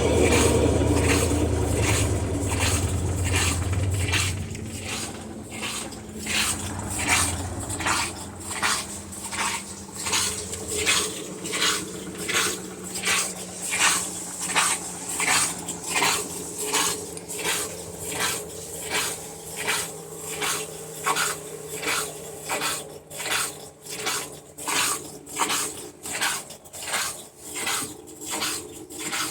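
Electrolux LS12Q washing machine in its spin: a loud low hum that dies away over the first ten seconds, then a steady clacking a bit more than once a second as the drum turns, over a faint tone that slowly drops. The noise in the spin is diagnosed as the motor.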